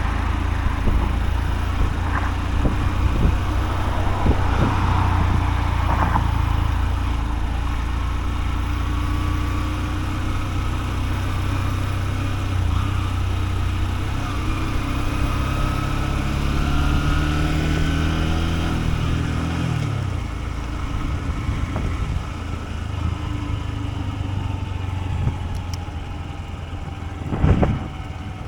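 Honda CB125F's single-cylinder engine running steadily as the motorcycle is ridden, with wind noise on the microphone. The engine note rises a little, then drops away about twenty seconds in as the throttle is closed and the bike slows. A brief thump comes near the end.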